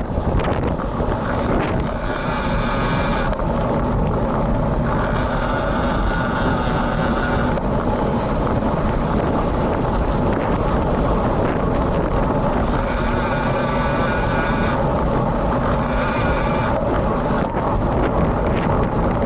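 Heavy wind buffeting the camera's built-in microphone on a moving road bike in gusty, rainy weather, a steady rumbling rush. Several times for a second or few, a higher even buzz rises over it.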